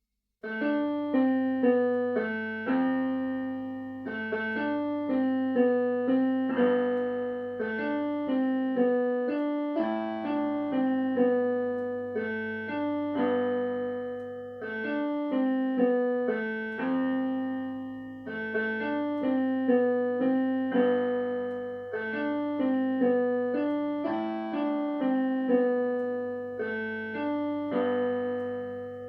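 Slow piano music: a melody of struck notes, each ringing out and fading, over a low held bass tone.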